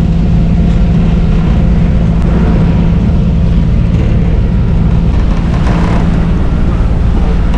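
An engine running steadily at constant speed: a loud, even low rumble with a steady hum.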